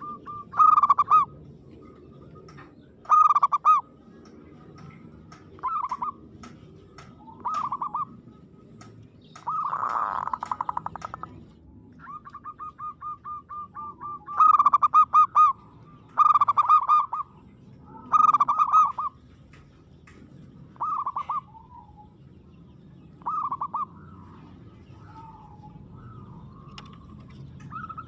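Zebra dove (perkutut) singing: repeated phrases, each a quick stuttering run of short notes leading into loud rolling coos, every two to three seconds. About ten seconds in there is a brief rough, noisy burst.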